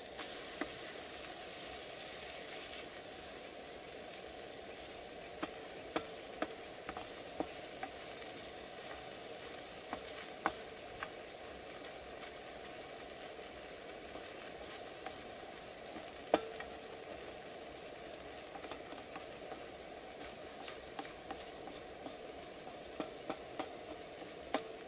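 Eggs and tomatoes sizzling in a nonstick frying pan, with a slotted spatula stirring and scraping the pan, giving sharp clicks now and then.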